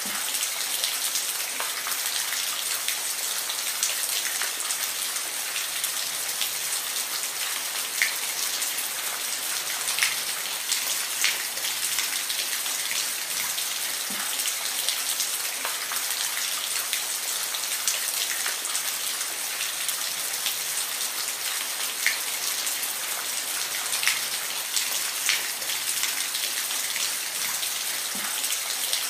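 Steady rain falling, a dense even hiss with scattered individual drops ticking sharply against a surface.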